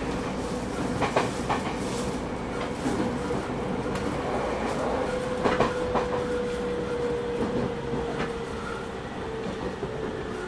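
JR 209 series 3000 subseries electric train running, heard from inside motor car MoHa 208-3002: steady rumble with the wheels clacking over rail joints. A whine holds steady, then slowly drops in pitch through the second half.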